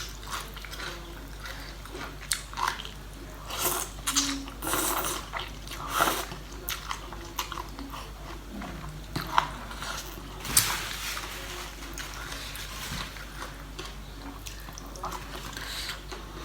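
A person eating seafood papaya salad: irregular chewing and biting noises with a few sharp clicks.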